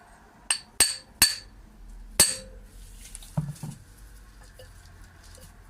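Sharp metal-on-metal clinks with a bright ringing note, four in the first couple of seconds with the last the loudest, as metal tools strike metal at a ring spanner on a tight manifold nut. Two duller knocks follow about three and a half seconds in.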